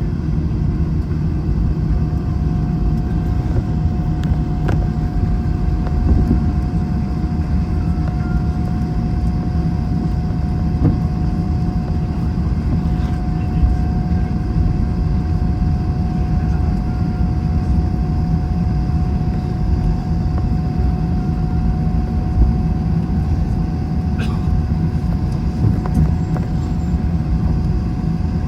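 Steady cabin noise inside an Airbus A321 on the ground after landing: a low rumble with a steady mid-pitched whine, and a few faint clicks.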